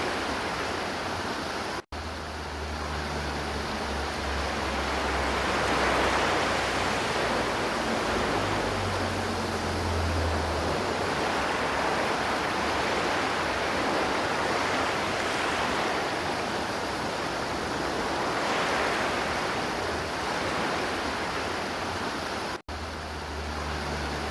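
River water flowing and rushing steadily, an even hiss of water. The sound cuts out for an instant twice, about two seconds in and near the end.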